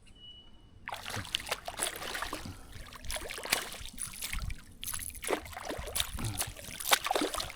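Splashing and sloshing in shallow creek water. A quiet first second gives way to a busy, irregular run of sharp splashes, crackles and knocks.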